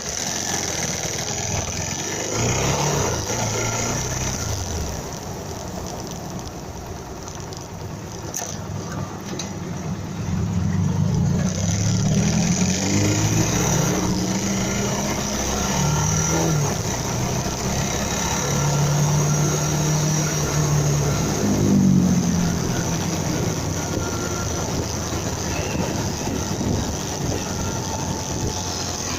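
Motorcycle engine running, its pitch rising and falling several times as it revs, louder in the second half.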